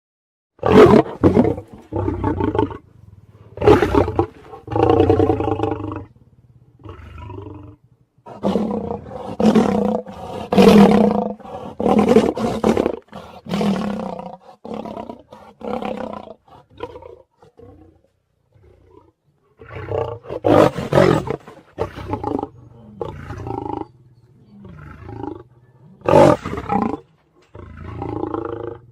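A run of big-cat roars and snarls, one separate call after another with short gaps between them.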